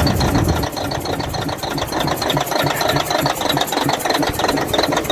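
Caterpillar 988F2 wheel loader's diesel engine running with a fast, regular knock. The knock was traced to cylinder 5's injector lifting from a broken hold-down bolt, its seals damaged and fuel leaking into the exhaust.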